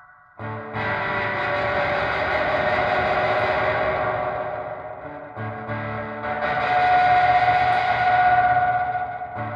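Electric guitar (a PRS SE Custom 24) played through a When the Sun Explodes reverb pedal and a clean amp: chords struck about half a second in and again about five and a half seconds in, each ringing out in a long wash of reverb. In the second chord a single high tone swells up and then eases back.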